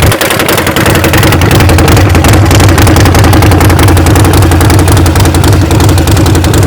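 Harley-Davidson XL 1200 Forty-Eight's air-cooled V-twin engine idling steadily and loud, with a fast, even pulse.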